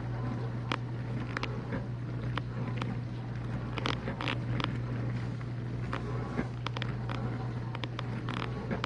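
Whirlpool dishwasher running, still in its wash stage before the final drain: a steady low motor hum with irregular sharp clicks and splashes from inside the tub.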